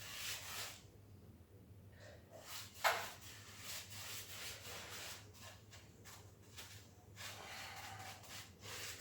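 Faint scratchy strokes of a cheap paintbrush scrubbing SBR primer onto a rough floor of old tile adhesive and self-leveller, with a single sharp tap about three seconds in.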